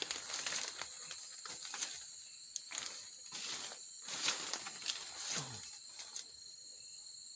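Steady high-pitched drone of insects, with short sharp chirps or rustles breaking in at irregular moments.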